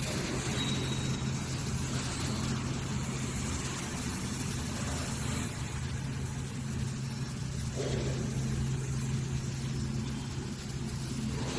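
Excavator engine running steadily with a low, even hum, and a brief higher sound about eight seconds in.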